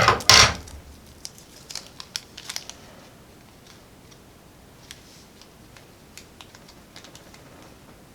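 Scissors cutting open a small heat-sealed plastic bag of screws: a short loud snip and rustle at the start, then light plastic crinkling and scattered small clicks as the bag is handled.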